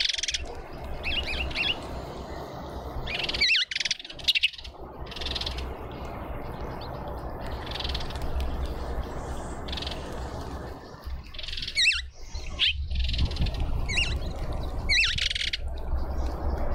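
Birds chirping in repeated short bursts of high calls every second or so, over a steady low hum.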